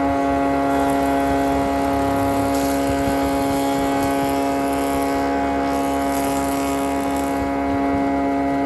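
A woodworking power tool's motor running at a steady pitch, a constant hum with a low rumble beneath it.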